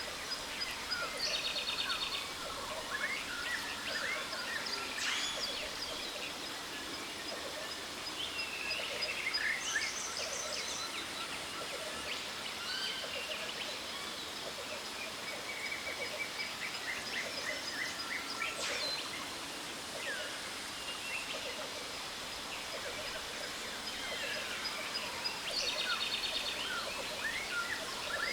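Many jungle birds calling over a steady rush of falling water, with quick rattling trills and short whistled glides coming and going. A thin steady high tone runs underneath.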